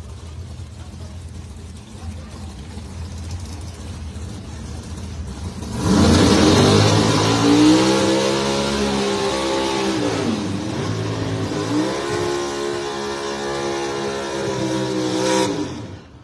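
Drag race cars idling on the line, then launching at full throttle about six seconds in. The engine pitch climbs, dips once at a gear change around ten seconds, climbs again, and drops off sharply near the end as the pass ends.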